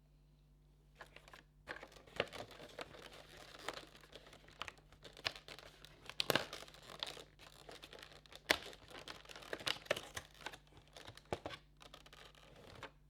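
Packaging crinkling and tearing as it is opened by hand, with many irregular sharp crackles. It starts about a second in and stops just before the end.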